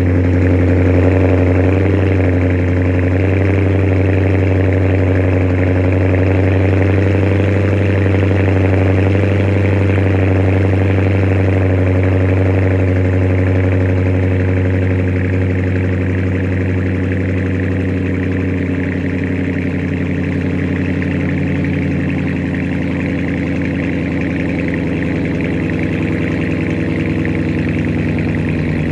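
Dodge Challenger's 5.7 Hemi V8 idling through straight pipes with no mufflers, just after start-up: a loud, steady exhaust note whose pitch wavers slightly in the first ten seconds, then settles a little quieter.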